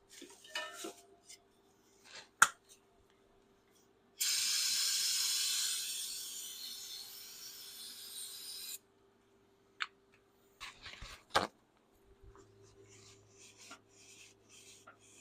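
Aerosol cleaner sprayed in one long hissing burst of about four and a half seconds, strongest at the start and fading before it cuts off. A sharp knock comes about two seconds in, and a few smaller clicks and knocks of handled parts follow later.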